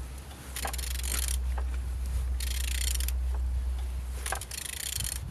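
A Renault K9K 1.5 dCi diesel engine being turned over by hand. Three scraping, clicking strokes of under a second each, about one second in, near the middle and near the end, over a steady low hum. The engine turns freely, not seized.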